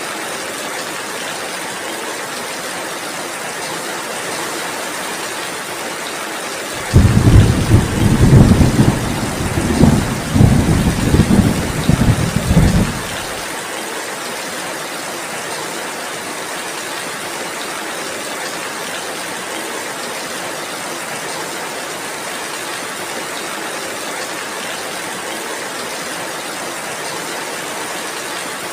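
Heavy rain falling steadily. A roll of thunder starts suddenly about seven seconds in, rumbles in several loud low surges for about six seconds and dies away, leaving the steady rain.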